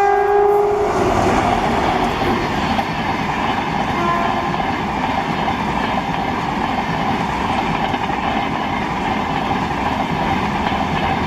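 Horn of a WAM-4 electric locomotive hauling an express ends about a second in, with a brief second toot about four seconds in. Throughout, the steady rolling noise of the passing passenger coaches on the rails.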